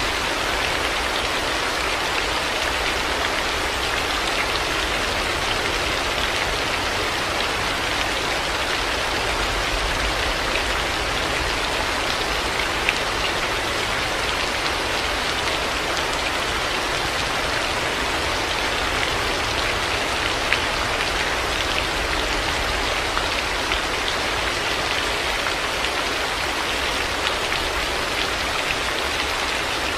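Heavy rain falling steadily, a dense even hiss with individual drops pattering on surfaces.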